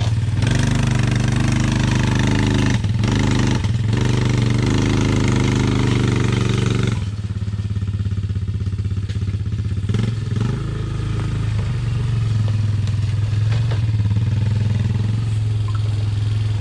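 Vehicle engine running hard under load for about seven seconds, then easing off to a quieter steady run.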